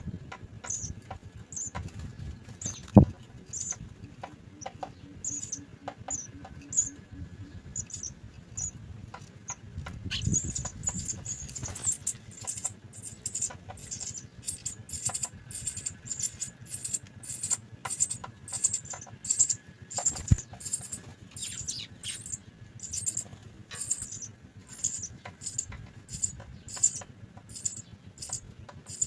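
House sparrow chicks begging in the nest: short, very high-pitched chirps, sparse at first and then coming steadily two or three a second from about twelve seconds in. A few sharp knocks, the loudest about three seconds in.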